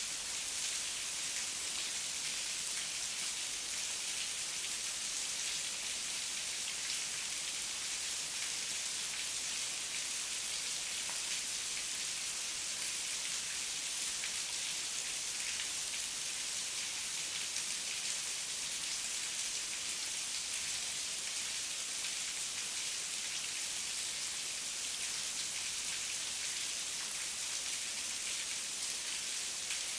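Steady heavy rain falling, a constant hiss of many drops pattering on surfaces.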